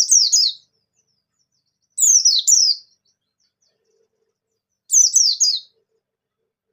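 A pleci (white-eye) singing in three short phrases about two and a half seconds apart. Each phrase is a quick run of three or four high, falling notes.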